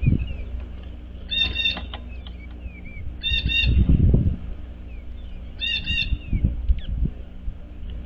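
Songbirds calling at a feeder: three short bursts of quick, harsh repeated notes about two seconds apart, over fainter scattered chips, with a few low soft thumps.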